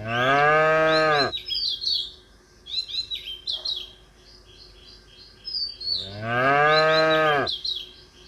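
A cow mooing twice, each moo a long call of about a second and a half that rises and then falls away. Birds chirp throughout between the moos.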